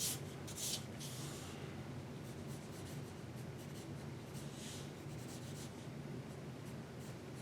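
Drawing strokes on paper: a few short strokes in the first second and a half, then faint and sparse, with one more stroke a little before five seconds in.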